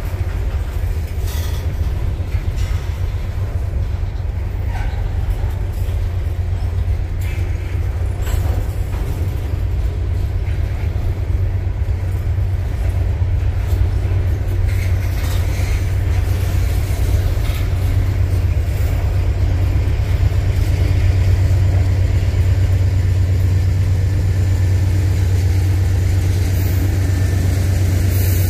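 Freight train of covered grain hopper cars rolling past close by: a steady low rumble of steel wheels on the rails, with a few sharp clicks, growing louder in the last several seconds.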